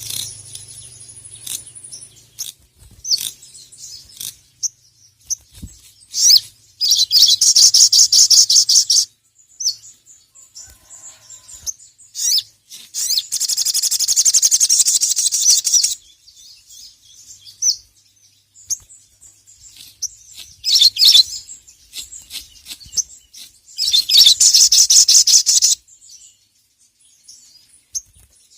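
A sogon (sogok ontong), a nectar-feeding bird, sings in three bursts of rapid, high-pitched twittering, each lasting two to three seconds. Short separate chirps fall between the bursts.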